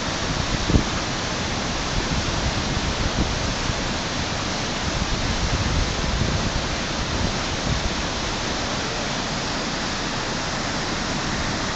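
Whitewater river rapid rushing steadily, with one brief thump a little under a second in.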